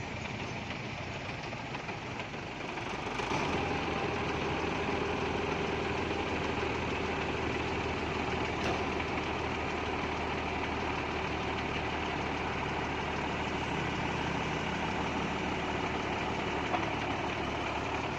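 A truck engine running steadily, getting louder about three seconds in.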